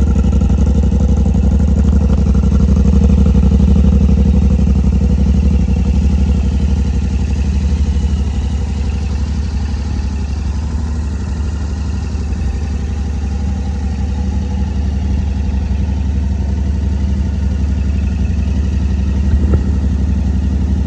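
Yamaha Ténéré 700's 689 cc parallel-twin engine running steadily at idle, a little louder in the first eight seconds or so. A short click comes near the end.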